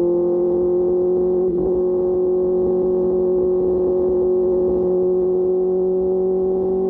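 QJ Motor SRK600's inline-four engine through an SC-Project exhaust, running at steady revs under way, its pitch creeping slowly upward. There is a brief dip about a second and a half in.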